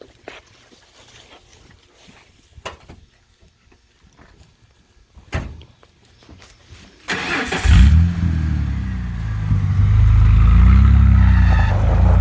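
A 1995 Ford F-150's 4.9 L (300) inline-six, exhausting through a muffler delete cut off behind the catalytic converters. Its exhaust comes in suddenly about seven seconds in and then runs loud and low, with its pitch wavering. Before that there are only a few sharp clicks.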